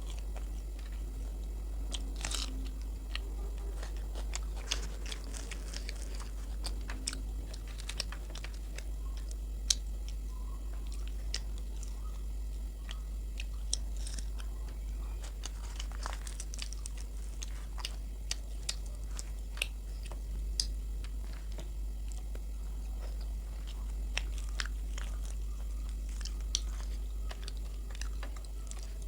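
Close-miked eating: a person chewing and biting luchi (fried puffed flatbread) with aloor dum (potato curry), with irregular small crunches and wet mouth clicks over a steady low hum.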